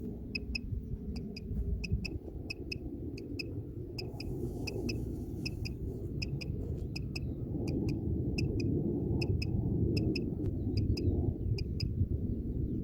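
Common quail calling: short, high, clipped notes repeated in quick groups of two or three throughout, over a steady low rumble.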